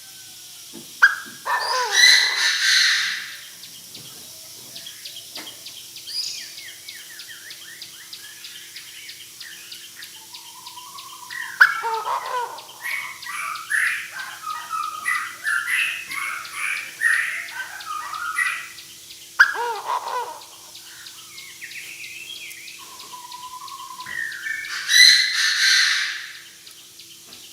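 Decoy Chinese francolin calling: loud, harsh call phrases about two seconds in and again near the end, with a long run of chattering calls in the middle. A faint steady hum runs underneath.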